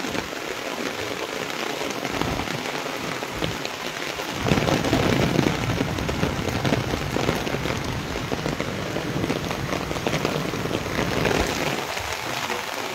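Heavy rain pouring down on roofs and a street, swelling louder about four seconds in.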